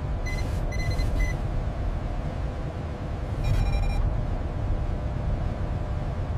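A steady low rumble with electronic beeps over it: three short beeps in the first second or so, and a longer, brighter beep about three and a half seconds in.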